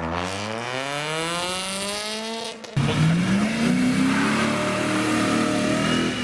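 Sports car engine revving hard as the car accelerates, its pitch climbing steeply. The sound breaks off abruptly for a moment a little under three seconds in, then an engine note rises again and holds.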